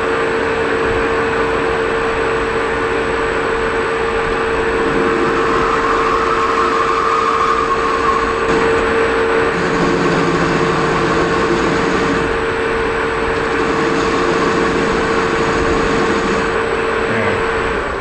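Metal lathe running under load, turning an undercut into a 1018 steel shaft: a steady motor hum with a constant whine over the cutting noise, which shuts off abruptly at the very end.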